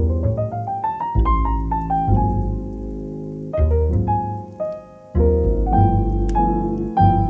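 Slow, calm solo piano music. A rising run of notes about a second in gives way to sustained low chords that change every second or two.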